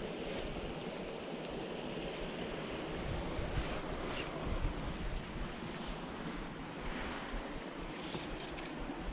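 Steady rush of flowing creek water, with wind buffeting the microphone in uneven low gusts.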